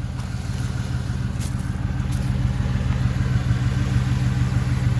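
2003 Chevy Silverado engine idling steadily while warming up from a cold start in sub-freezing air, with a few brief high squeaks from the cold parts.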